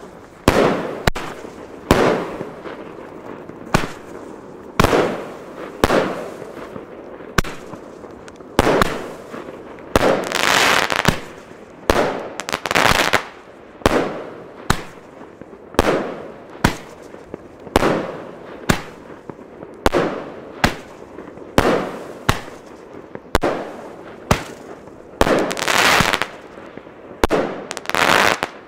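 Two firework shell tubes fired together, 16 shots in all: a steady run of sharp bangs about one a second as the shells launch and burst. Several bangs trail off in a long crackle.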